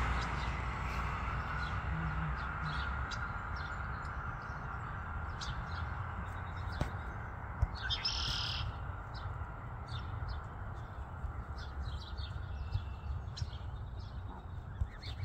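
Birds chirping: many short, high chirps and peeps scattered throughout, with a longer chirping phrase about eight seconds in, over a low steady rumble.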